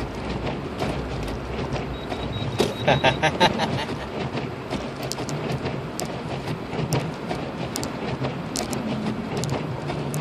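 Inside the cabin of a 2006 Lexus IS250 AWD driving on a snow-covered road: steady tyre and road noise over a low engine hum, sprinkled with light ticks. About three seconds in comes a brief run of quick, evenly spaced high tones.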